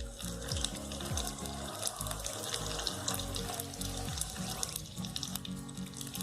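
Crumb-coated chicken pieces deep-frying in hot oil on a high flame: a steady sizzle with many small crackles, under background music.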